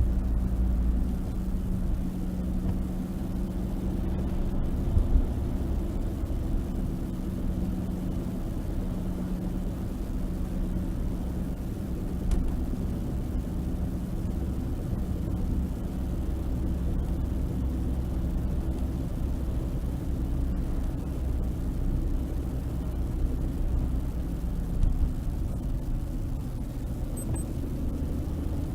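Suzuki Hustler driving, with a steady low rumble and a low hum that fades in and out. It carries an abnormal drivetrain noise that began after a lift-up suspension was fitted, which the owner cannot pin down to any one part.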